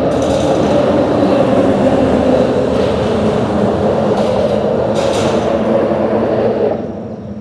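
A vehicle passing over a bridge, a steady loud rumble that swells in just before and falls away about seven seconds later.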